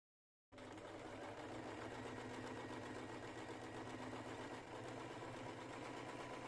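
Electric sewing machine running steadily as it stitches, starting suddenly about half a second in.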